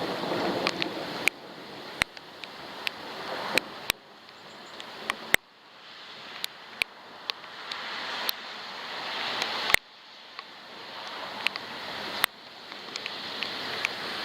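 Rain on a waterproof camera housing: sharp, irregular ticks of drops striking it, over a rain hiss that swells and then drops off abruptly after several of the louder ticks.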